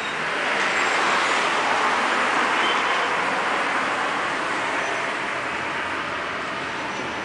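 A road vehicle passing by: a rush of tyre and road noise that swells to its loudest about a second in and then slowly fades away.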